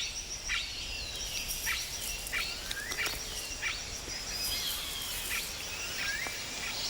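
Rainforest ambience: many short chirping and whistling calls, each sliding downward in pitch, a few a second, over a steady high insect drone.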